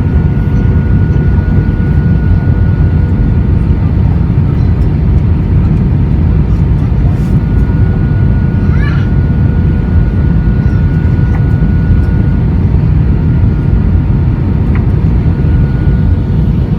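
Steady loud rumble of an Airbus A320's jet engines and airflow heard from inside the cabin, with a thin steady whine over it and a brief rising chirp about halfway through.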